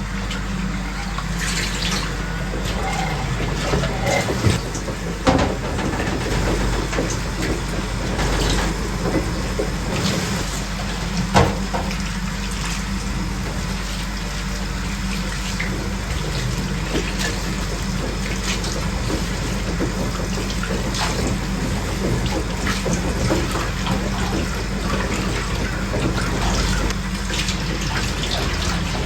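Steady rush of running water, with scattered clicks and knocks, the sharpest about five and eleven seconds in.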